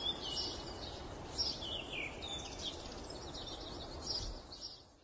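Small birds chirping, with repeated short calls that drop in pitch, over a steady background hiss; the sound fades out near the end.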